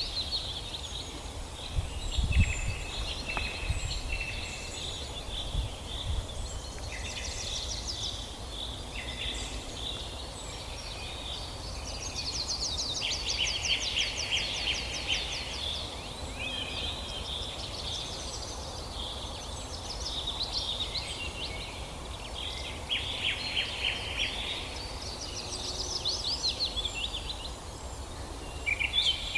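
Several songbirds singing at once in a forest dawn chorus: overlapping chirps, whistles and fast trills, over a low steady background rumble.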